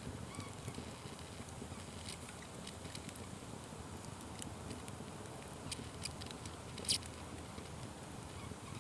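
Wood fire crackling: irregular small pops and snaps over a steady low noise, with one louder pop about seven seconds in.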